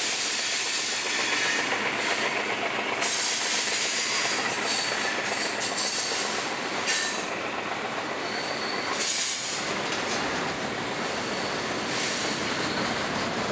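Georgia Central freight train's cars rolling past, steel wheels running over the rail joints with a steady clickety-clack. A faint high wheel squeal comes and goes a few times.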